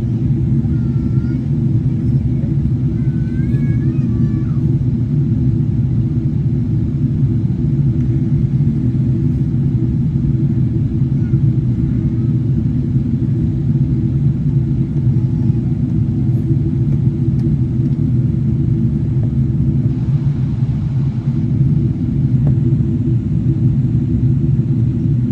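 Steady, unbroken low rumble of a Boeing 777-300ER's engines and airflow during its approach to landing.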